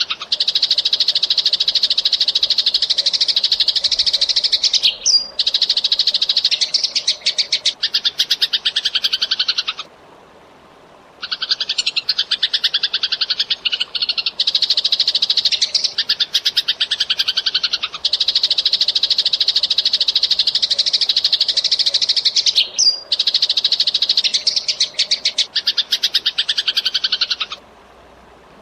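Eurasian tree sparrow chattering vigorously: long runs of very rapid, tightly packed chirps, breaking off for about a second ten seconds in and again near the end.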